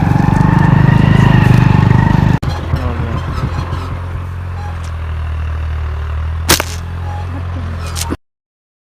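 A motor vehicle's engine running steadily, louder for the first two seconds or so and then quieter after an abrupt change. There is a single sharp click about six and a half seconds in, and the sound cuts off suddenly a little after eight seconds.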